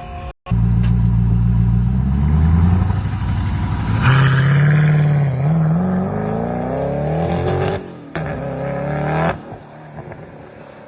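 High-performance sports car engine revving and accelerating, its pitch climbing steadily, then a break and a second short burst before it drops away quieter near the end.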